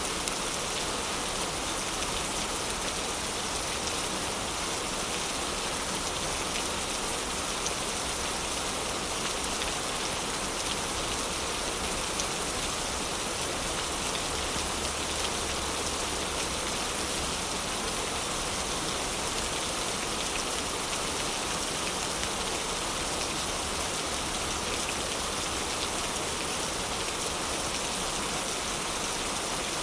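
Heavy rain falling steadily, an even rushing patter with no letup.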